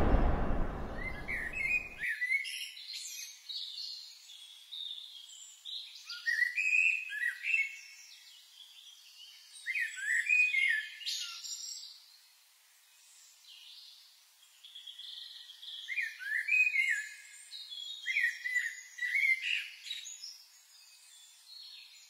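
A whoosh fades away over the first two seconds. Then songbirds sing in short chirping phrases, several times over with pauses between.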